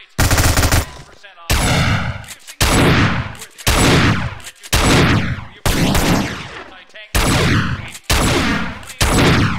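Gunfire: a short rapid burst right at the start, then about eight heavy single shots roughly a second apart, each trailing off in a long echo.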